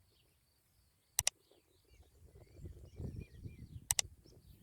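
Several birds chirping and calling in open farmland. A sharp double click comes twice, about a second in and near the end, over a low rumble in the second half.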